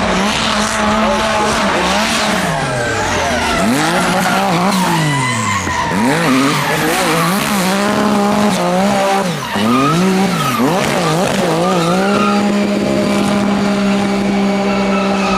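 Racing car engine revving up and down again and again, with tyres squealing, then holding a steady high note for the last few seconds.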